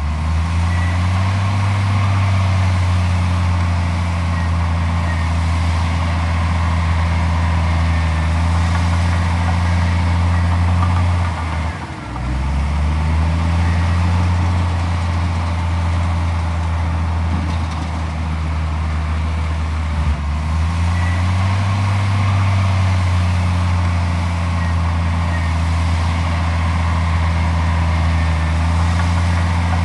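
Heavy diesel engine of earthmoving machinery running steadily at working speed. The engine note sags sharply about twelve seconds in, then climbs back. It changes pitch again around twenty seconds before settling.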